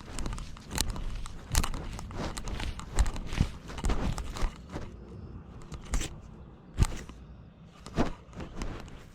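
Irregular knocks and rustling picked up by a GoPro worn on a cat as it moves about: its footsteps and the camera jostling against its body.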